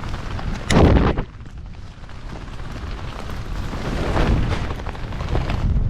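Wind rushing over the microphone, with a loud blast of rushing air about a second in as the parachute is deployed and opens; the wind noise then drops off sharply and slowly builds again under canopy.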